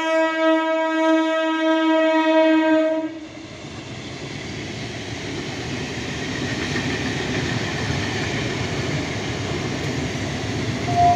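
Electric local train's horn sounding one long, steady blast that cuts off about three seconds in; then an EMU local train passing close at speed, a steady rumble and rush of wheels on rail.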